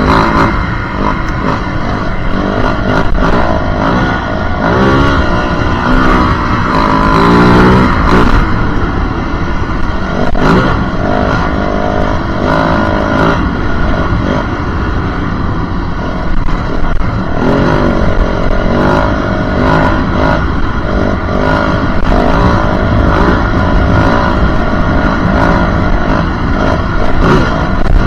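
Yamaha WR450F's single-cylinder four-stroke engine under way off-road, its note rising and falling again and again as the bike accelerates and shifts.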